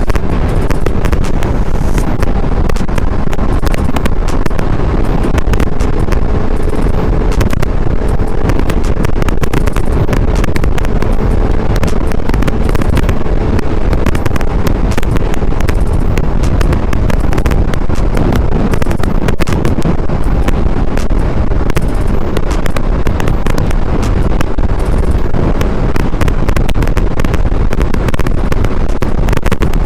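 Motorcycle riding at speed, with heavy wind buffeting and crackling on the microphone over the bike's running noise, steady throughout.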